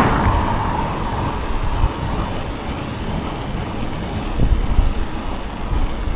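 Wind buffeting a bicycle-mounted microphone while riding along a road, an uneven low rumble. A passing vehicle's noise dies away over the first second.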